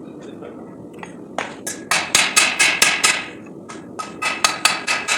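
Hand hammer striking hot 5160 steel on an anvil in two quick runs of blows, about five a second, each with a bright metallic ring. The first run starts about a second and a half in; the second follows a short pause, a little after four seconds in.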